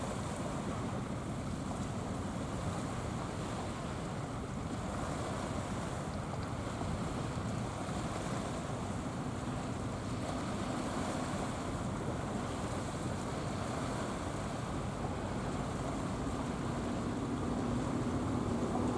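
Wind noise on the microphone over the wash of waves at sea. A steady low engine hum joins about halfway through and grows louder over the last few seconds.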